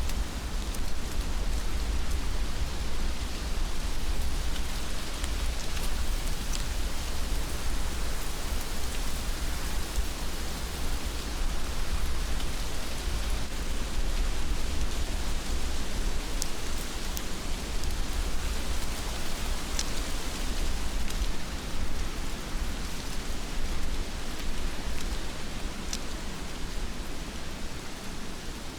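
Heavy rain falling steadily: a dense, even hiss with a deep low rumble beneath it and the odd sharper drop tick. It eases off slightly near the end.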